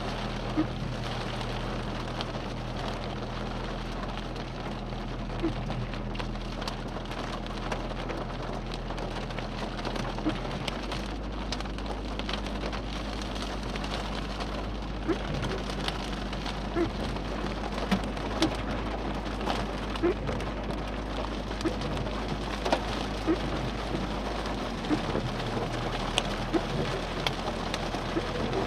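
Steady thunderstorm rain with scattered sharp taps of drops striking a hard surface, more frequent in the second half, over a low steady hum.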